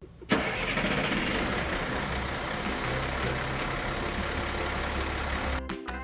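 A vehicle engine running steadily: a noisy, even sound with a low hum underneath. It starts abruptly just after the start and gives way to music near the end.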